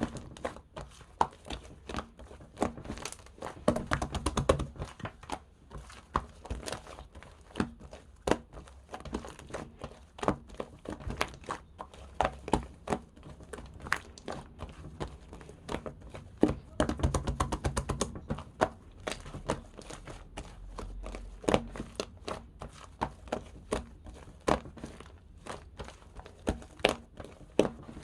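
Slime being squished and pulled by hand, making a dense run of sticky clicks and pops, busier in two stretches.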